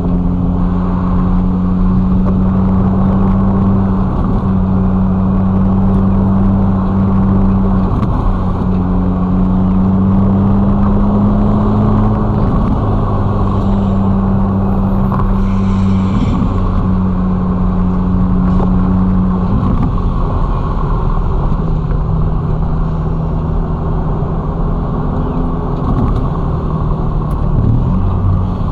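Ferrari Roma's twin-turbo V8 running steadily while cruising, its pitch stepping slightly every few seconds, over a steady wash of tyre and road noise.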